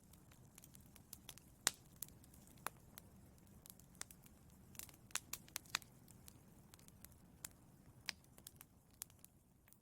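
Wood fire burning in a fireplace, crackling: irregular sharp pops and snaps over a low steady hiss of the flames.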